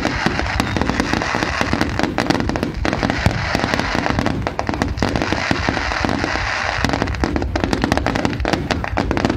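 Fireworks going off in a dense, continuous barrage of rapid bangs, pops and crackles.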